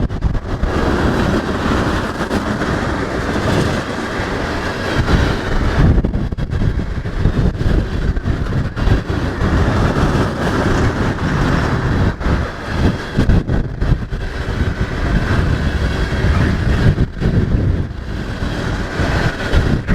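Norfolk Southern freight train rolling past, its cars' steel wheels clattering over the rail joints with a continuous rumble.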